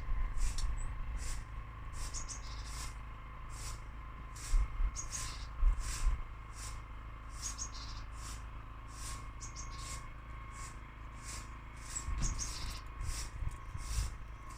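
Small garden birds calling with short, high chirps, several a second, over a faint steady hum, with a few low bumps about a third of the way in and near the end.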